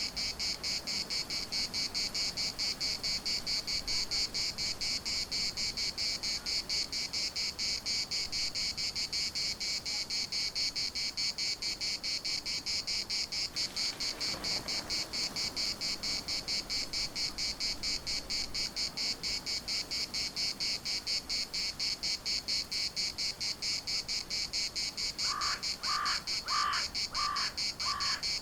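Chorus of cicadas: a steady, high, rapidly pulsing buzz. Near the end a bird calls five times in quick succession.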